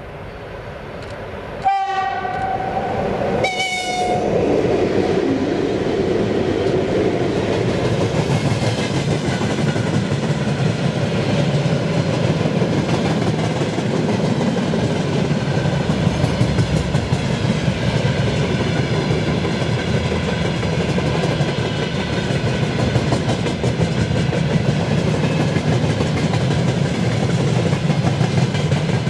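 A locomotive horn sounds for about two seconds, then a Russian freight train passes close by, with a steady rumble and the clickety-clack of its wagons' wheels over the rail joints.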